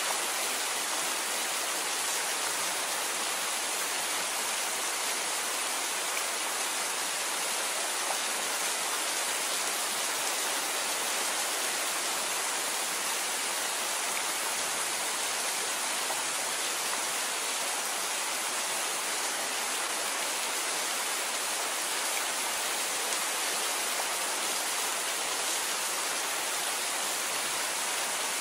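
Steady rain falling, an even unbroken hiss with little low rumble.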